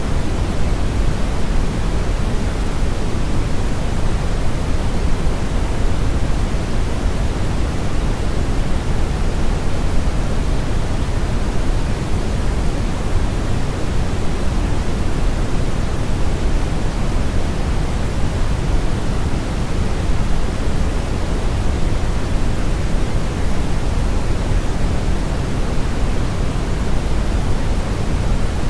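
Steady brown noise: a constant, even hiss weighted heavily toward the low end, like a deep rushing rumble, with no change throughout.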